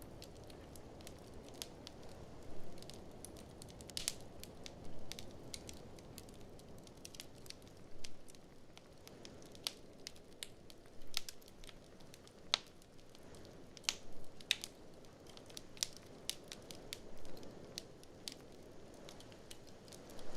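Wood fire in a fireplace crackling, with irregular sharp pops and snaps, over a steady low rush of blizzard wind.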